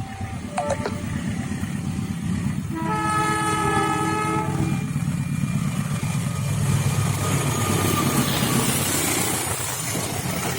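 Diesel-hauled passenger train sounding its multi-tone horn once for about two seconds. It then passes close by with a loud rumble of engine and wheels on the rails, loudest about seven to nine seconds in and easing off near the end.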